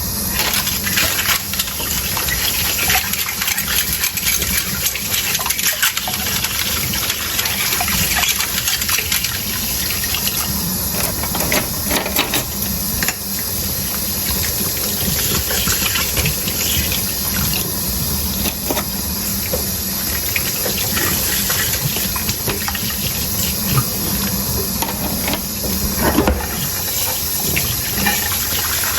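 Tap water running steadily into a sink while dishes are washed by hand, with frequent short clinks and knocks of crockery and utensils throughout.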